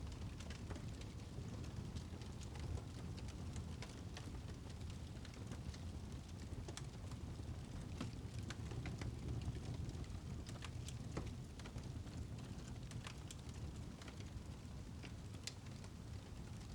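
Wood fire burning in a fireplace: a low steady rumble with scattered sharp crackles and pops.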